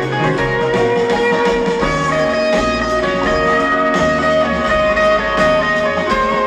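Live band playing an instrumental passage, led by guitar and other plucked strings over a steady beat.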